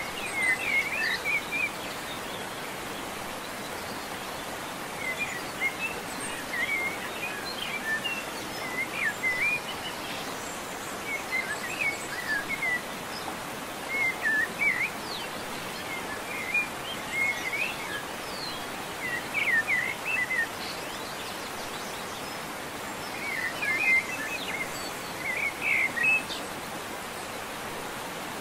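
Small birds chirping in short clusters every few seconds over a steady background hiss.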